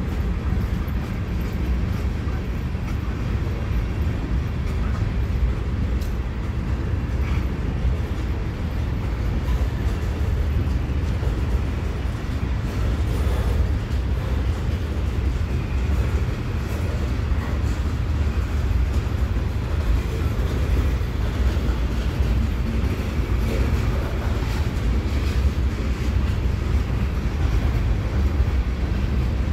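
Freight train's tank cars and covered hoppers rolling past on the rails, a steady low rumble of wheels on track with a few faint clicks.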